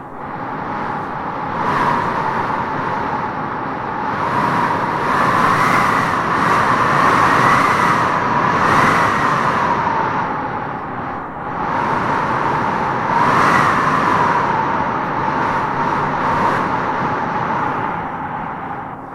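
Howling wind gusting through trees: a steady rush with a whistling howl that wavers in pitch, swelling in gusts a couple of seconds in, through the middle, and again about two-thirds of the way through.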